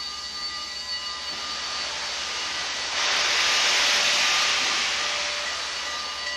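Steam railway sound effects: a rushing hiss that swells about three seconds in and fades, over a few steady high tones.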